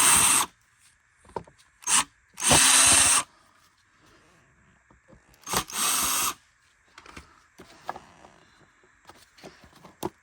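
Power drill spinning in three short bursts, about 2.5 seconds apart, backing screws out of a Bissell Cleanview upright vacuum's plastic housing. Small clicks and knocks of handled parts follow in the later seconds.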